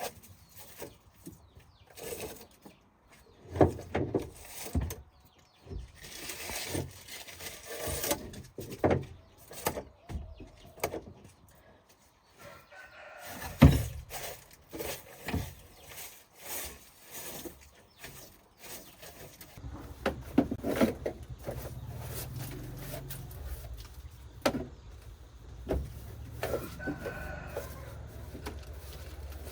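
Scattered sharp knocks and clatter of metal work, with a rooster crowing. A steady low hum sets in about two-thirds of the way through and keeps going.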